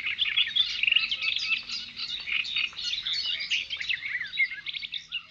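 Many birds chirping at once, a dense chorus of quick high overlapping notes that fades away near the end.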